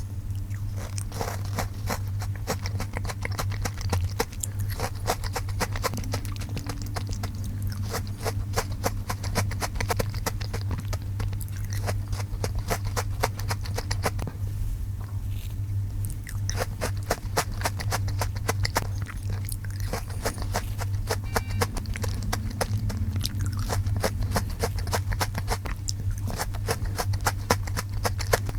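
Close-miked crunching and chewing of crisp butter crunch snacks, a dense run of crackly bites over a steady low hum.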